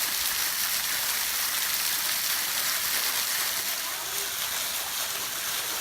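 A small waterfall rushing steadily, an even hiss of falling water.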